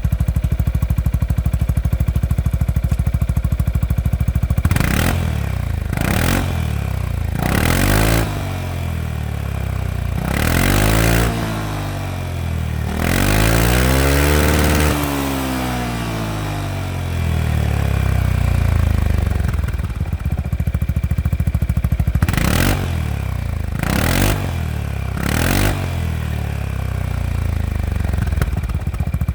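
Yamaha XMAX 300 scooter's single-cylinder four-stroke engine, through an IXIL road-legal certified aftermarket muffler, idling and then revved in short throttle blips. About halfway through it is held in one longer rev that rises and falls, then it drops back to idle before three more quick blips near the end.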